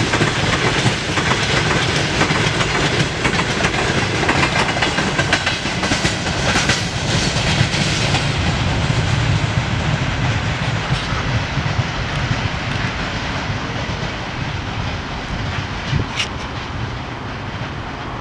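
Open freight gondola wagons rolling past on the rails, wheels clattering over the track joints, then the sound fading and dulling about eight seconds in as the end of the train pulls away.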